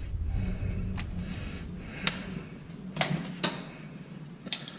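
A handful of separate sharp metallic clicks and clinks from hand tools and bolts being worked on an engine mount, about one a second with a small cluster near the end, over a low background hum.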